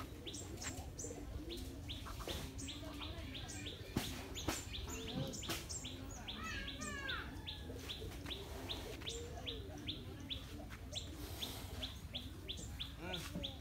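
Small birds chirping: a steady run of short, high chirps, about three a second, with a burst of sweeping, warbled notes about halfway through. Two sharp clicks land about four seconds in.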